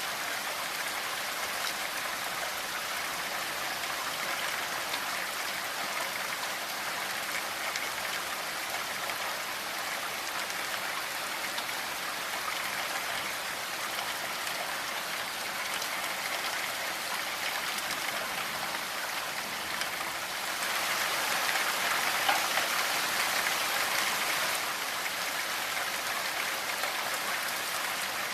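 Steady rainfall, a dense even patter of drops, which grows heavier for about four seconds near the end before settling back.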